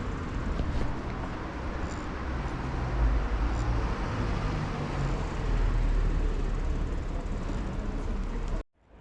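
Steady city street and traffic noise with a low rumble, heard from a moving bicycle; it cuts off suddenly near the end.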